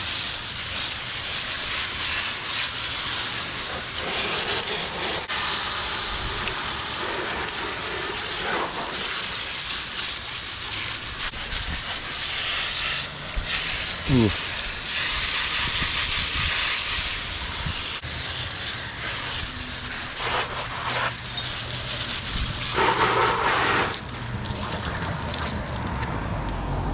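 Steady hiss of a water spray washing mud off a mud-caked pit bike, with a brief falling whine about halfway through; the spray cuts off near the end.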